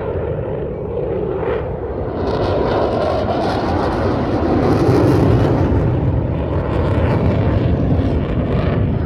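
Eurofighter Typhoon's twin jet engines in a loud, rushing roar during a display pass, swelling to its loudest about five seconds in and then easing slightly.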